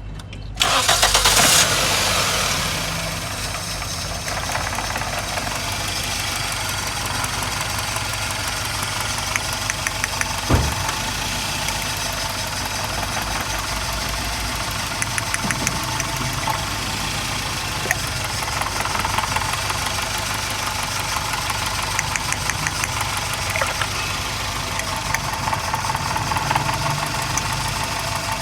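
Toyota XLi's petrol engine catching about half a second in, running up briefly, then settling to a steady idle with a fast, even ticking from the valve train: the tappet noise that the workshop means to cure by setting the tappets. One sharp knock comes about ten seconds in.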